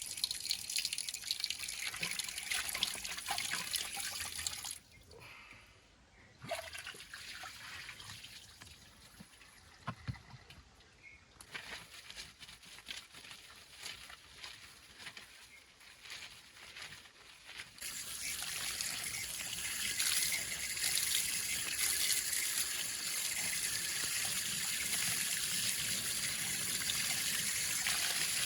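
Running water trickling and splashing. The flow drops off for a moment about five seconds in, runs weaker and uneven for a while, then grows steadier and louder from about two-thirds of the way through.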